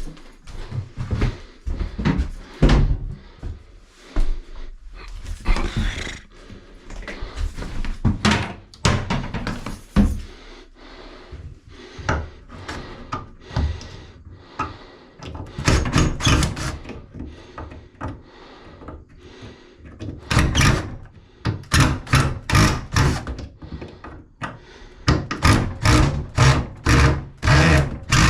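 A series of irregular knocks and thuds, with a quicker, more even run of short raps near the end.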